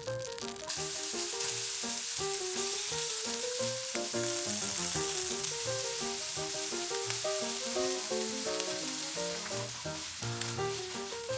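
Bacon, shimeji mushrooms and sliced onion sizzling as they fry in butter in a frying pan; the sizzling starts about a second in. Light background music with a simple melody plays under it.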